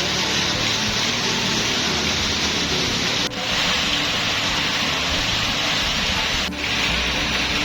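Heavy rain pouring down, a steady dense hiss; the sound dips for a moment twice.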